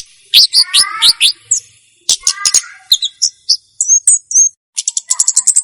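Komade songbird singing: a busy run of sharp high chirps and short whistled slurs, ending in a fast rattling string of repeated notes near the end. The song is played as a lure and master song for training young komade.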